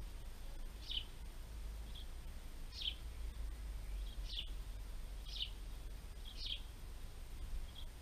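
Small garden bird chirping: about five short, high chirps a second or two apart, with a few fainter ones between.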